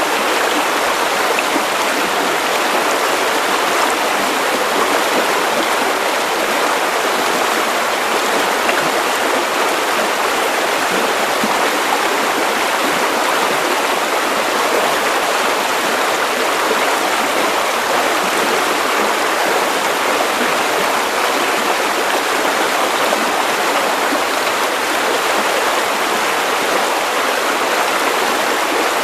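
Steady white noise: an even, unbroken hiss with little low rumble.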